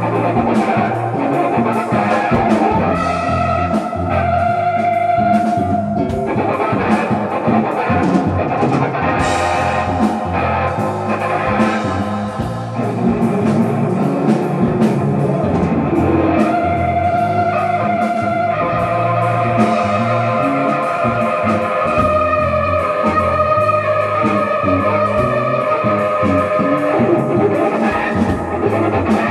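Live fusion band with Korean traditional instruments, drum kit, bass, keyboard and guitar playing together, a melody of long held notes over a busy drum beat and bass.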